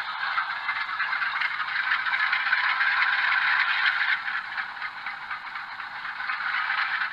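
Simulated GE diesel prime mover sound from an ESU sound decoder in an HO scale U23B locomotive, running with a rattly engine chug through the model's small speaker, with no deep bass. It swells for a couple of seconds, eases back about four seconds in and builds again near the end.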